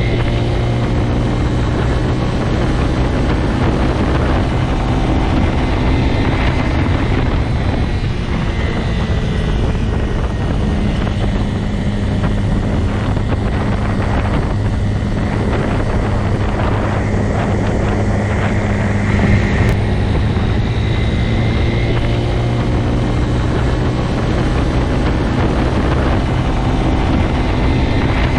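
Motorcycle engine running steadily at a constant pitch, with only slight rises and falls in speed.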